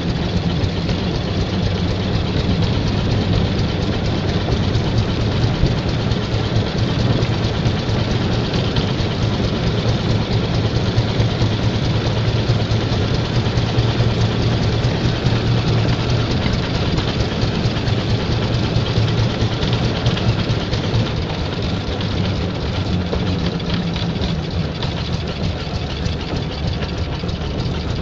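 1911 IHC Auto Wagon's freshly rebuilt air-cooled two-cylinder engine running steadily at an even speed, on its first run since the rebuild.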